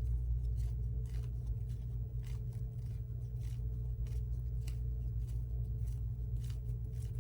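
Tarot cards being handled, with light, irregular clicks and rustles, over a steady low hum.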